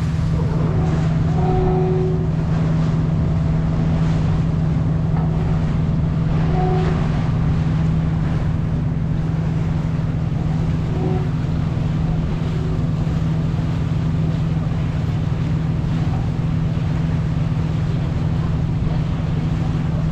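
Sightseeing boat's engine running with a steady low drone over a constant rush of water and wind.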